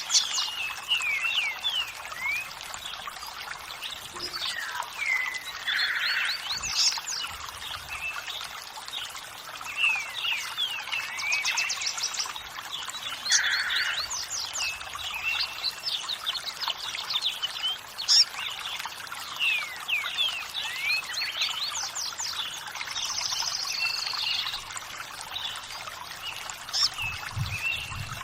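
Many birds chirping and singing in quick, overlapping calls over a steady rush of running water.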